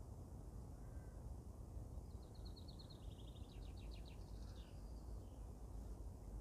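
Garden ambience: a steady low rumble with a small songbird singing a quick trilled phrase of rapid notes, starting about two seconds in and lasting about three seconds.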